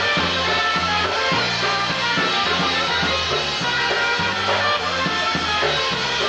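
Live polka band playing an instrumental break between sung verses, with a steady bass line and beat under the melody.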